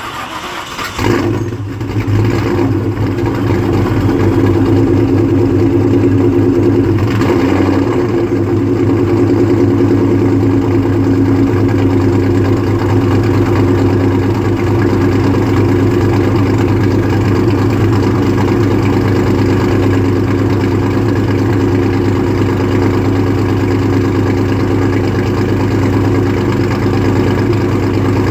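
1999 Ford Mustang SVT Cobra's 4.6-litre DOHC V8, breathing through Bassani mid-length headers and a Borla ATAK exhaust, starts about a second in and then idles steadily and loudly.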